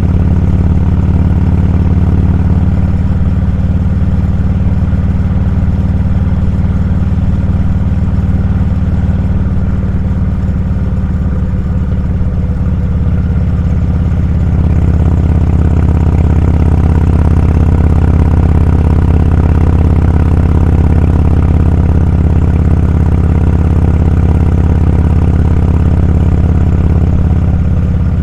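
Motorcycle engine running steadily under way, mixed with wind and road noise. It grows louder and fuller about halfway through, as if the throttle is opened, and eases slightly near the end.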